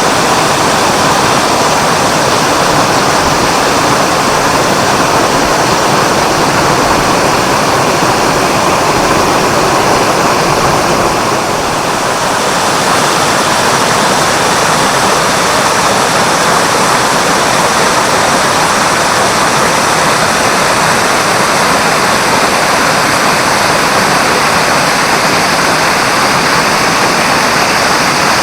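Mototaki Fukuryusui waterfall: spring water gushing out of a broad rock face and cascading down, a loud, steady rush of falling water that softens briefly about halfway through.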